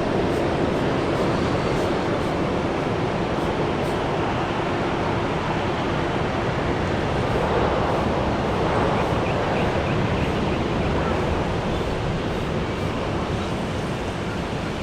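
Jet engines of an arriving Airbus A320-200, a steady rushing noise with a faint tone early on that dies away, the whole sound slowly fading.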